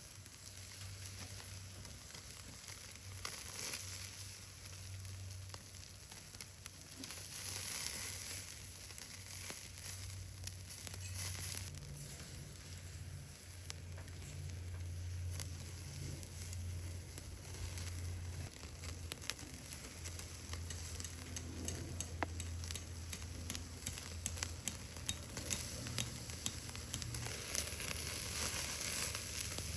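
Food frying with a steady sizzle and small pops, which grow more frequent in the second half.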